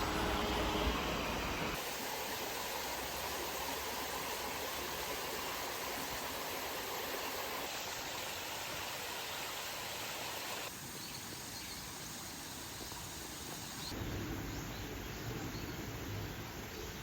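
River water rushing, a steady wash of noise that shifts in character abruptly a few times, about two, eleven and fourteen seconds in.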